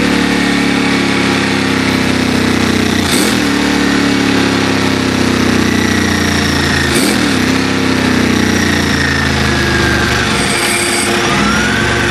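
Ducati 996 90-degree V-twin engine in a 1998 Ducati 748, running at idle, with a brief dip and rise in pitch twice, about four seconds apart.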